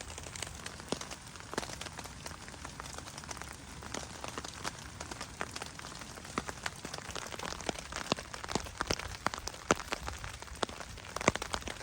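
Rain falling, with individual drops striking a surface as sharp, irregular ticks that come thicker in the second half.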